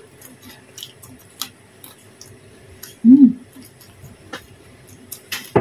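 Close-miked eating: soft chewing and small wet lip-smack clicks scattered throughout, with a short hummed "mmm" about three seconds in and a sharper smack near the end.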